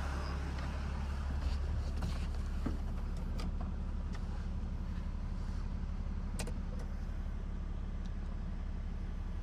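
6.7-litre Cummins inline-six turbo diesel idling, a steady low drone heard from inside the truck's cab, with a few faint clicks.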